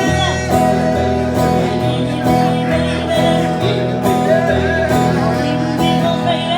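Acoustic guitar-led band playing an instrumental passage of a country-bluegrass style song.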